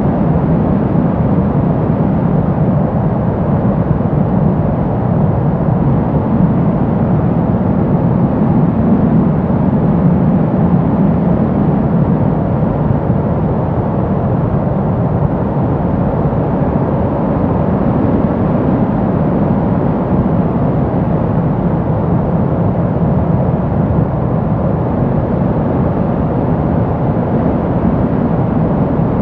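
Steady brown noise: an even, deep rushing hiss weighted toward the low end, with no tones or beats.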